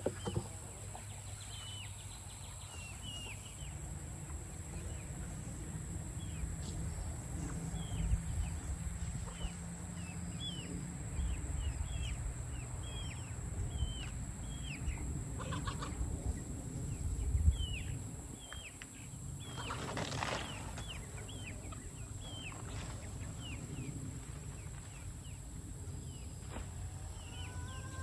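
Young chickens calling over and over with short, high peeps that fall in pitch, over low rumbling handling noise, with a couple of louder noisy bursts in the second half.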